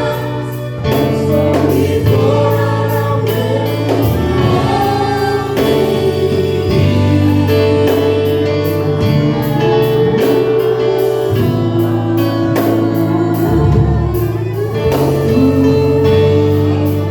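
Gospel music: a choir singing held notes over a band, with sustained bass notes and a steady drum beat.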